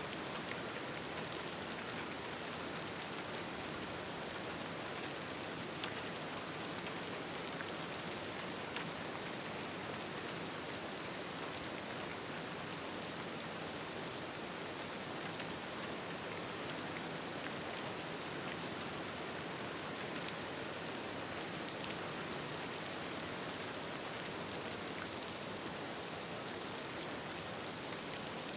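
Steady rain: a dense, even hiss of falling rain with scattered small sharp taps of drops.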